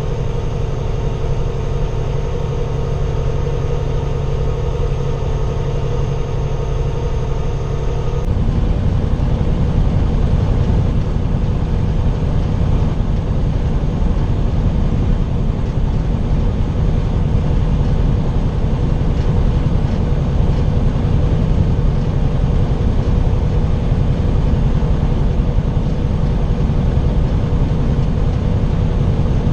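Semi-truck diesel engine running steadily with road noise, heard from inside the cab while driving. About eight seconds in, the sound changes abruptly to a louder, deeper rumble.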